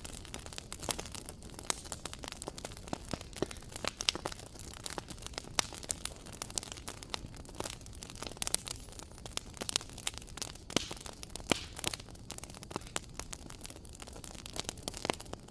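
Wood fire crackling in a fireplace: a steady run of irregular sharp pops and snaps over a low hiss, with no music or voice.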